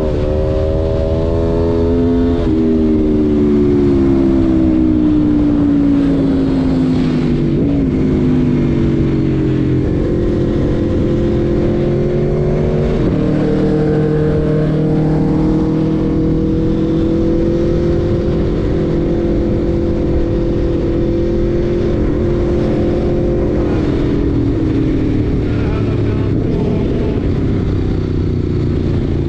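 Aprilia Tuono V4 1100's 1077 cc V4 engine under way, its pitch climbing at first, dropping off about two seconds in and sinking for several seconds as the bike slows. It then climbs again, steps once near the middle, holds fairly steady and falls away near the end.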